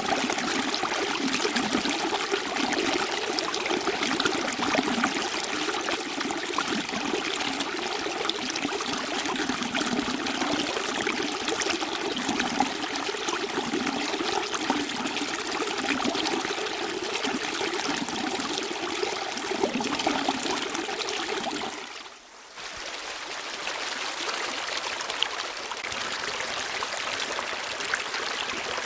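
Steady running water, like a stream flowing and gurgling. About 22 seconds in it briefly drops away and comes back with less of its low gurgle.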